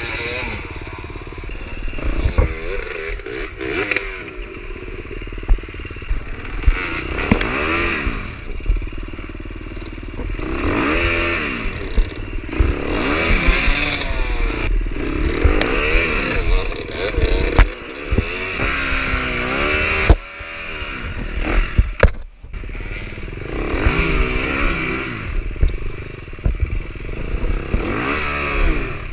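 Dirt bike engines revving up and falling back over and over, every couple of seconds, with clattering knocks of the bikes on rock: riders fighting for traction on a steep, torn-up rocky hill climb.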